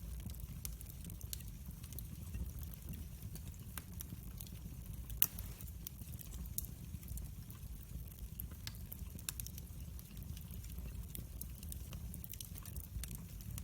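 Wood fire burning in a fireplace: a steady low rumble of flames with irregular crackles and pops, one sharper pop about five seconds in.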